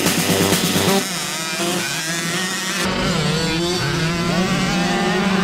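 Several motocross dirt bike engines revving together, their pitches rising and falling as they ride. A rhythmic music track cuts off about a second in.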